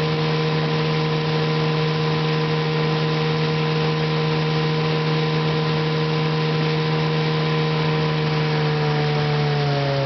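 Johnson 9.5 hp two-cylinder two-stroke outboard motor running steadily at a constant speed, its pitch starting to fall near the end. The owner says it seems to run pretty good.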